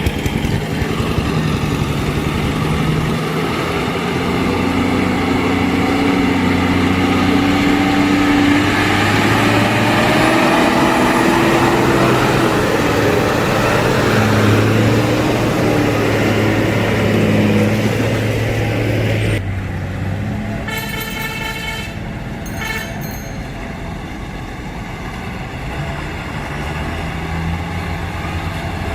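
Truck engine running on the move, its pitch rising and falling with the revs over loud road noise. About two-thirds of the way through the noise drops and a horn sounds in a few short blasts.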